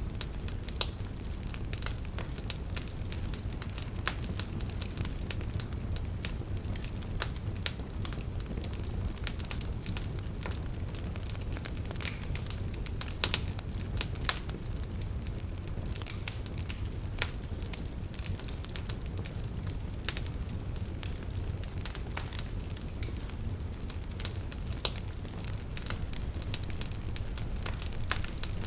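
Wood fire burning in a fireplace: a steady low rumble of flames with irregular crackles and a few sharper pops of burning wood.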